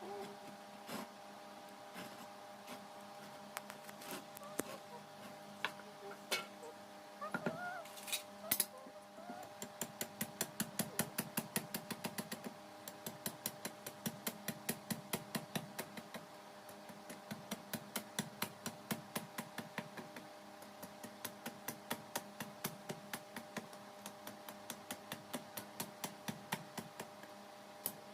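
Light hammer taps in a knife-making workshop, a few scattered at first, then a steady run of about four a second from about ten seconds in, over a steady hum.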